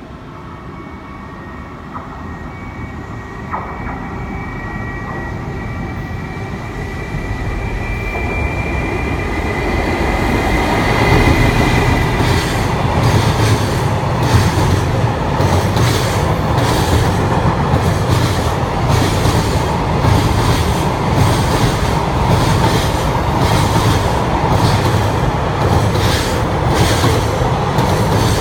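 A container freight train hauled by an EF210 electric locomotive passes at speed. It approaches with a faint high whine and grows louder for about ten seconds, then the wagons run by with a steady, rapid clickety-clack of wheels over the rail joints.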